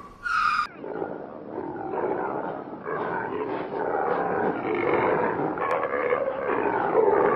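An animal calling: a short high call with a clear pitch ends about half a second in. A long, rough, growling vocalisation follows.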